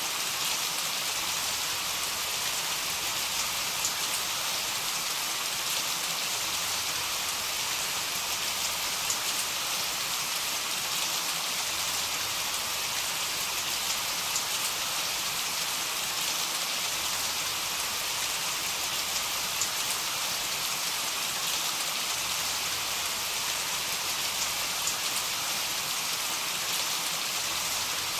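Heavy rain falling steadily: an even hiss dotted with scattered sharp drop ticks.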